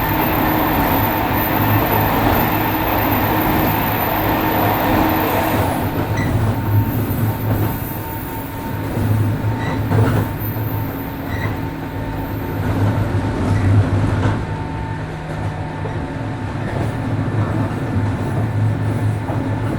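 JR 103 series 1500 subseries electric commuter train running, heard from inside the car: a steady hum of motors and wheels on the rail. About six seconds in the busier mid-range running noise drops away, leaving the hum, with occasional sharp clicks from the wheels over the track.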